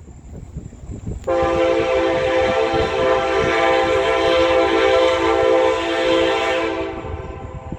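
Train horn sounding one long steady blast of several notes at once, starting suddenly about a second in and cutting off near the end, over the low rumble of the train.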